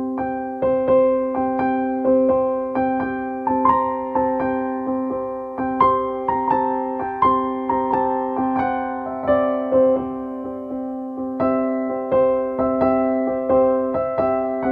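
Background music: a piano or electric piano playing a gentle, evenly paced melody over sustained low notes.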